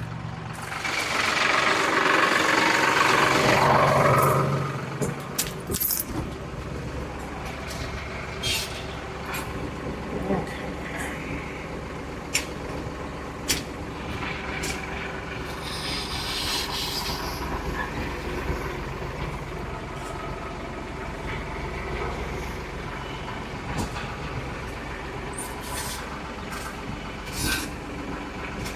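A loud hiss of released air lasts about four seconds near the start. A diesel engine then runs steadily, with scattered clicks and knocks and a brief softer hiss about halfway through.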